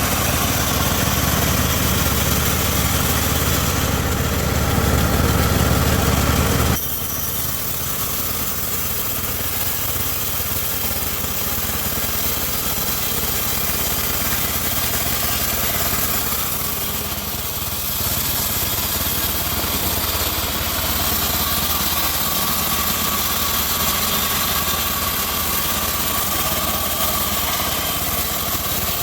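Homemade band sawmill running steadily. A heavy low rumble stops abruptly about seven seconds in, leaving the machine running more lightly with a faint steady hum.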